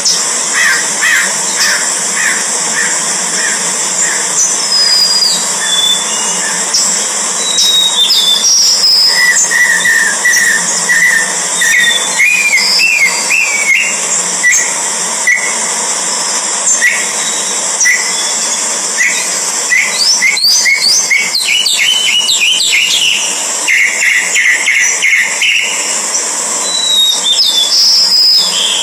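Birds calling: short chirps and whistled slurs, some in quick repeated runs, over a steady high hiss.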